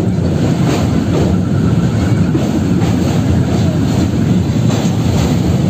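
Running noise of an Indian Railways LHB sleeper coach on the move: a steady, loud rumble of wheels on the rails.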